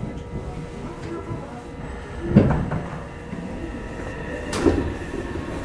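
Inside a Meitetsu 3500 series electric train car: a steady low rumble and equipment hum with no rising or falling motor whine. There is a sharp clunk about two and a half seconds in and another shorter knock near the end.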